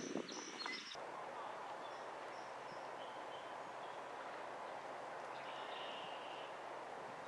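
Faint, short bird chirps over steady outdoor background noise, with a brief rustling burst at the very start.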